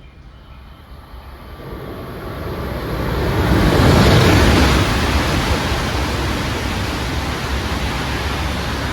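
Shinkansen bullet train passing at high speed without stopping: a rushing noise that swells from about a second and a half in, is loudest around four seconds, then stays strong and begins to fade near the end.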